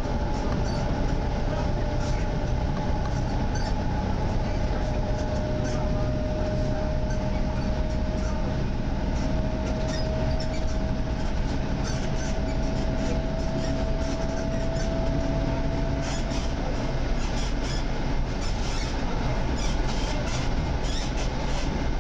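EN57 electric multiple unit running along the line, heard from on board: a steady rumble of wheels on rail with many short clicks from the track. A thin whine rises slowly in pitch and stops about three quarters of the way through.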